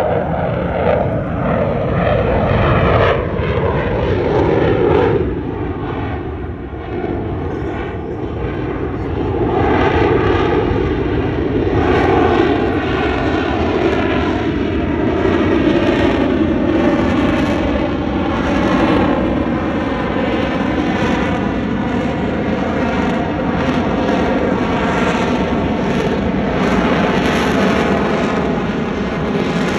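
Fighter jet engine noise, loud and continuous, easing a little about six seconds in and then building again.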